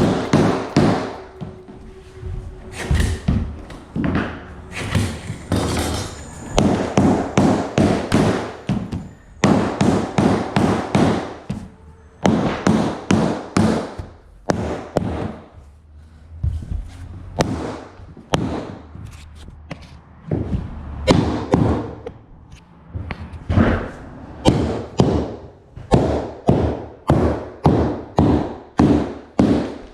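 Runs of sharp knocks and thuds as rigid-core vinyl floor planks are tapped together and knocked into place, several blows in quick succession, then a pause, over and over.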